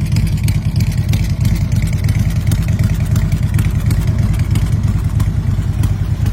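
Harley-Davidson Electra Glide Ultra Limited trike's Twin Cam 103 V-twin engine running steadily with a deep, fast, even pulse and no clear revving.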